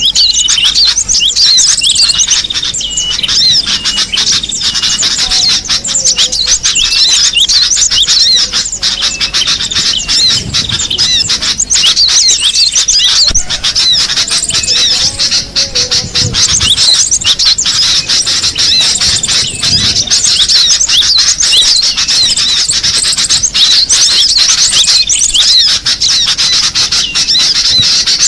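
Cinereous tit (gelatik batu) calling, a dense, unbroken chatter of quick high notes.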